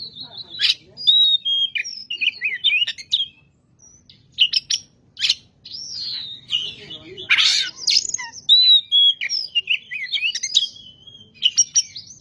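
Oriental magpie-robin (kacer) singing in full voice: a fast, varied run of clear whistles, slurred notes and sharp chirps, with brief pauses between phrases.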